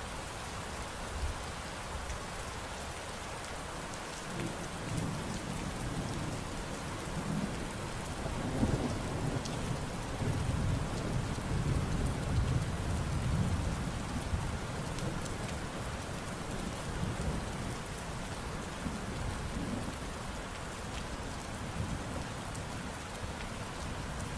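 Steady rain falling, with a long roll of thunder rumbling in about four seconds in, loudest in the middle and slowly dying away.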